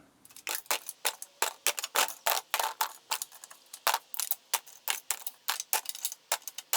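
Small hand tools and odds and ends (screwdrivers, pens, router bits, an Allen wrench) clattering as they are picked out of the table saw fence's top channel and set down: a quick, irregular run of light clicks and knocks, about four or five a second.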